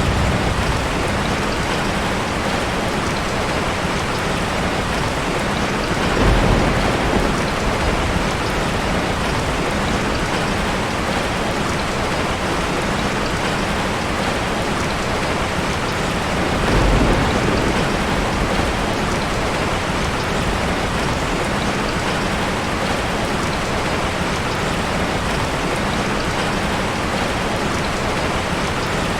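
Steady rain pouring, with two brief low rumbles of thunder about 6 and 17 seconds in.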